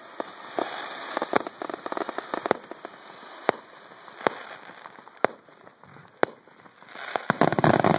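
Fireworks display: sharp shell bursts about once a second over steady crackling, swelling into a loud, dense crackle near the end.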